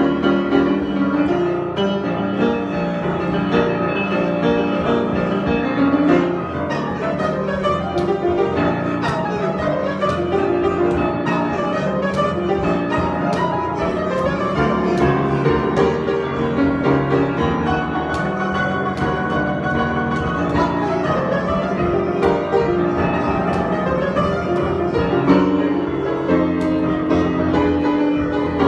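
Piano improvisation: a continuous flow of notes over sustained chords.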